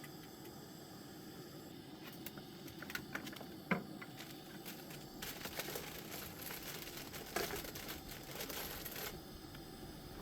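Crinkling and rustling of plastic food packaging with scattered light clicks and knocks from handling, the crinkling densest for a few seconds in the second half.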